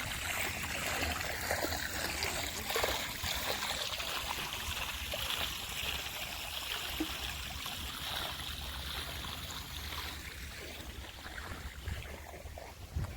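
Mineral spring water trickling and flowing over travertine terraces in a steady stream, with a low rumble underneath, growing a little quieter near the end.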